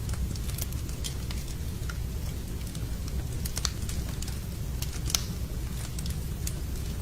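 Wood fire burning in a fireplace: a steady low rumble of flames with irregular sharp crackles and pops, several a second, one louder pop about five seconds in.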